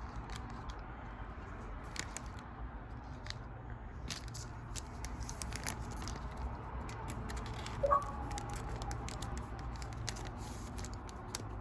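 Pokémon trading cards being handled and flipped through by hand: faint scattered clicks and rustles over a steady low hum, with one brief sharper sound about eight seconds in.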